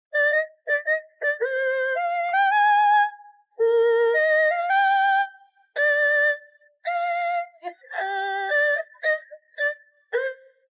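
A high-pitched voice singing a melody in short held notes that step up and down in pitch, with gaps between phrases.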